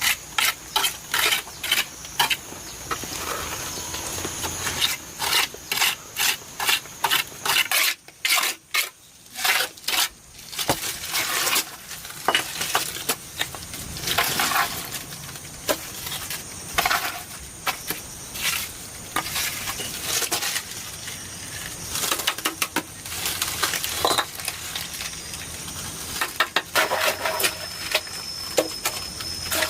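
An irregular series of sharp clicks, clinks and knocks, as of hard objects being handled, with a quieter stretch about eight seconds in.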